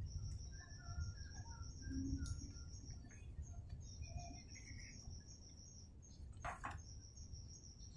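Faint outdoor ambience: a high-pitched insect trill that pauses and restarts, over scattered short bird chirps. There is a low rumble underneath, and a single sharp knock about six and a half seconds in.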